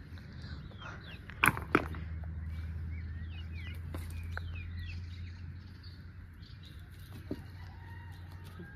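Birds chirping, with two sharp knocks close together about a second and a half in and a steady low hum underneath.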